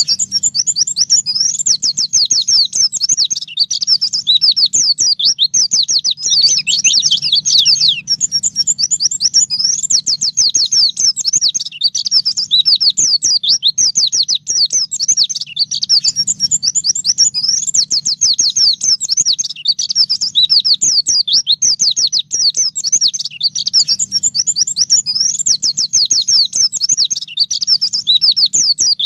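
White-eye (pleci) singing continuously in fast, rapid-fire runs of short, high, down-slurred notes, the machine-gun "nembak" style of song used to train other cage birds.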